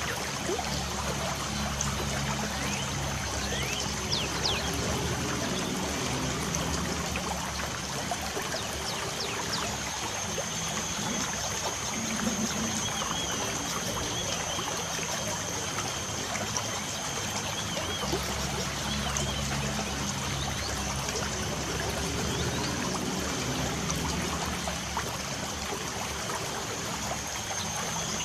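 Steady trickling water with scattered short bird chirps and a faint steady high-pitched tone above them.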